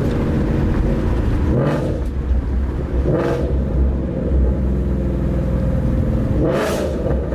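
Ford Mustang GT V8 with long-tube headers, X-pipe, resonators and Roush axle-back mufflers, running in gear. Its exhaust rises and falls in three short throttle blips during downshifts: the first about two seconds in, one near the middle and one near the end.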